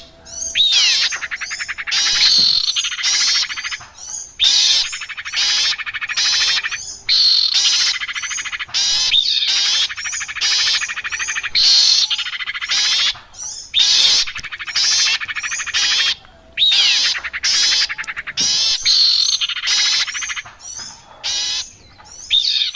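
Recorded birdsong played as a trapping lure: loud bursts of rapid, high trilling and chattering notes, each a second or two long, repeating with short gaps.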